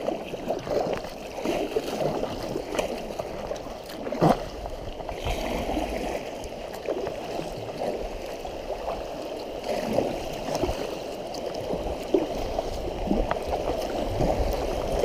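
River water rushing and gurgling through a rapid, with occasional brief splashes.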